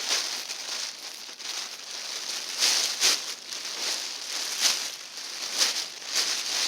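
Rustling and crinkling of an insulated poncho's fabric as it is pulled on, in irregular swishes, several of them sharper about three, four and a half and five and a half seconds in.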